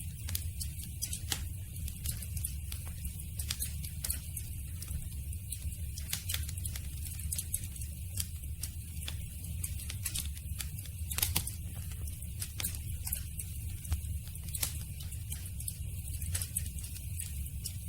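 Campfire burning: frequent sharp crackles and pops at irregular intervals over a steady low rumble of the flames.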